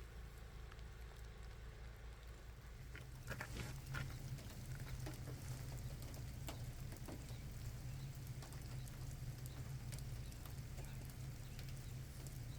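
Light rain at night: scattered raindrops ticking, faint, over a steady low hum that gets a little louder about three seconds in.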